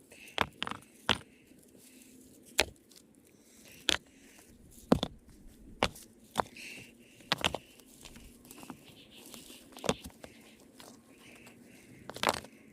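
A series of sharp knocks and cracks at irregular intervals, roughly a second or more apart, over a low background.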